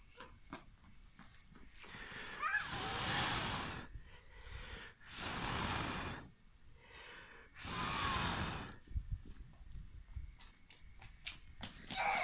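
Someone blowing hard on a campfire three times, each breath a rush lasting about a second, with faint crackling in between. A steady high-pitched tone runs underneath.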